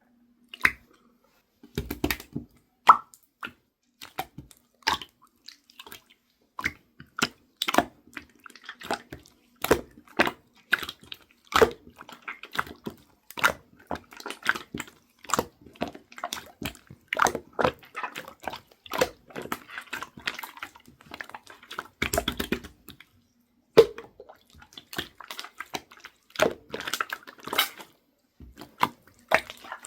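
Slime being squished and pressed by hand, making irregular wet clicks and small pops.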